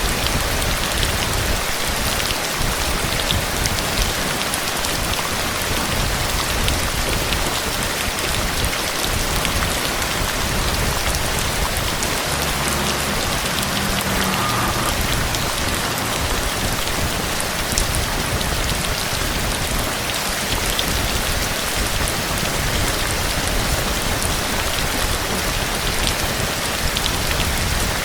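Steady rain falling, a dense even hiss with many small drop clicks.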